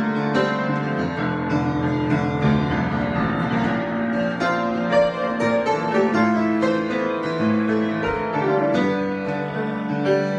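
Solo piano improvisation: a continuous stream of struck notes over held, ringing chords.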